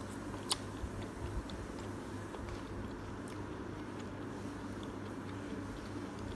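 A person chewing soft udon noodles and seaweed, with a sharp click about half a second in and a few softer clicks, over a steady low hum.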